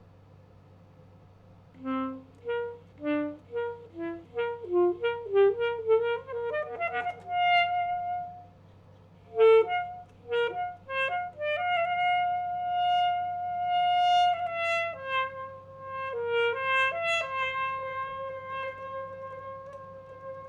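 Alto saxophone played solo. After about two seconds of quiet, it plays a run of short, detached notes that climb in pitch. A brief pause follows, then long held notes.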